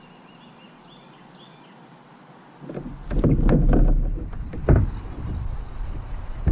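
Faint high chirps over a quiet background, then about two and a half seconds in a loud low rumble with irregular knocks and bumps: movement and handling in a kayak close to the microphone.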